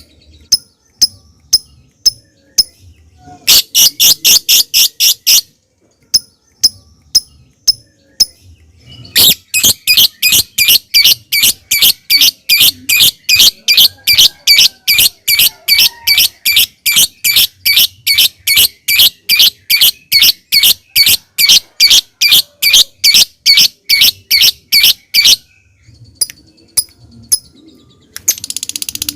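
Lovebird calling: sharp high chips spaced out in a clicking 'ngetik', then a long unbroken chattering run of fast repeated shrill notes ('ngekek') lasting about sixteen seconds, with a brief denser chatter starting near the end.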